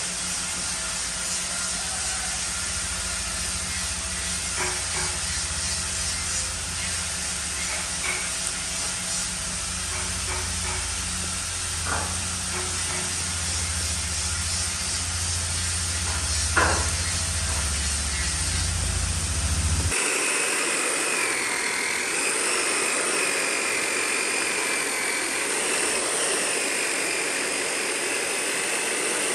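Woodworking power tools running: a steady motor hum with hiss and a few sharp knocks, then after a cut about two-thirds of the way in, a different machine with a wavering high-pitched whine.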